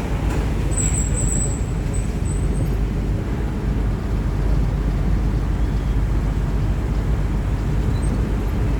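Motorcycle on the move: a steady low engine and road rumble with wind noise. A thin high whine comes in briefly about a second in.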